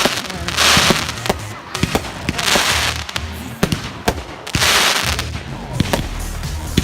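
Fireworks going off: bursts of crackling and fizzing about every two seconds, with sharp bangs and cracks between them, over background music.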